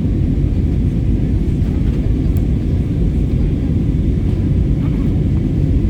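Steady low rumble of jet engine and airflow noise inside an airliner cabin, climbing out just after takeoff.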